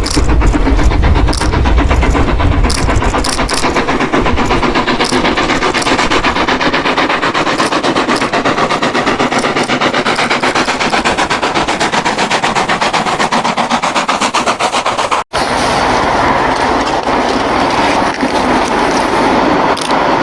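Steam locomotive running, a loud fast rapid run of repeated beats with rail and running-gear clatter. The sound cuts off abruptly for a moment about fifteen seconds in, then a similar train sound carries on.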